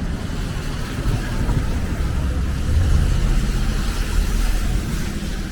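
City street traffic: a steady low rumble of passing vehicles with a hiss above it, swelling as a vehicle goes by about halfway through.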